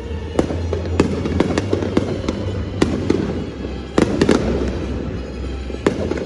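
Fireworks going off: a run of sharp bangs, a cluster of them about four seconds in, over a steady low rumble and dense crackling.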